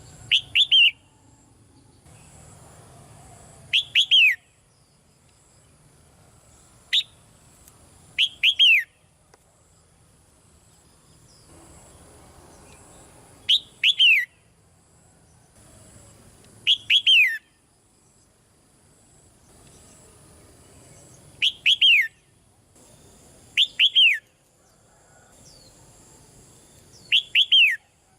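Red-whiskered bulbul calling: short bursts of a few quick, clear notes that fall in pitch, repeated every few seconds.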